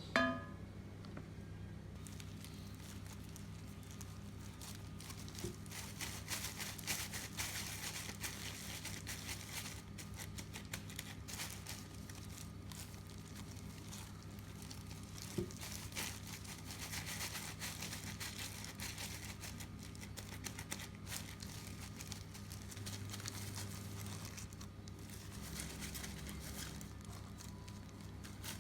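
Kitchen handling noises: light crinkling and rustling with scattered small clicks and a couple of sharper taps, over a steady low hum.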